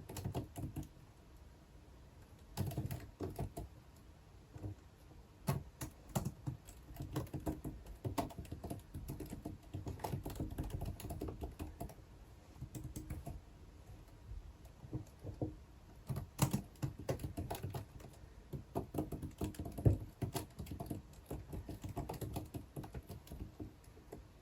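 Typing on a computer keyboard: runs of quick key clicks in irregular bursts, broken by short pauses.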